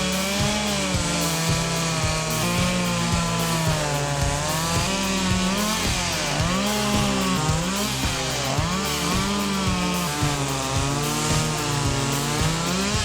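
Chainsaw cutting wood, its engine pitch dipping under load and climbing back several times.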